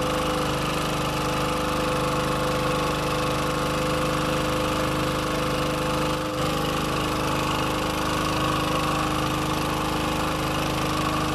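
Boat engine running steadily, an even mechanical drone with a steady hum, dipping briefly about six seconds in.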